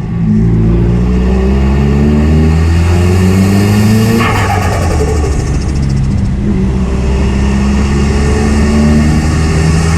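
Straight-piped Nissan S15 200SX's turbocharged SR20 four-cylinder pulling under acceleration through its exhaust. About four seconds in the engine note drops at a gear change with a brief burst of hiss from the turbo, then it pulls again.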